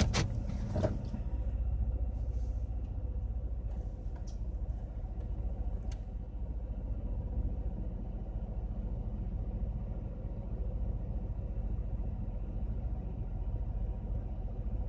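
2000 Chevy Impala's 3.4-litre V6 idling steadily just after a restart, with a couple of short clicks near the start. The engine stalls whenever it is given throttle or put in gear, and the owner has been chasing low to no fuel pressure.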